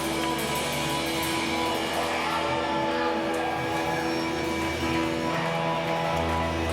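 Live band music led by guitar, with sustained notes and a bass line that changes chord a couple of times.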